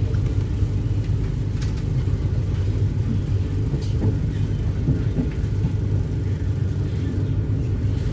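Steady low rumble of the Argo Sindoro passenger train, heard from inside an executive-class carriage, with a few faint clicks over it.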